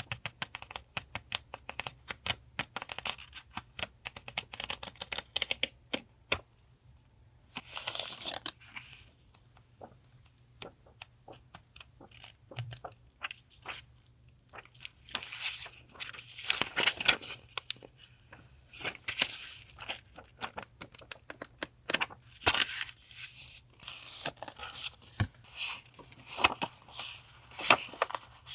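Paper and plastic stationery packets being handled, rustling and crinkling, with many small sharp clicks and a few longer rustles that sound like tearing.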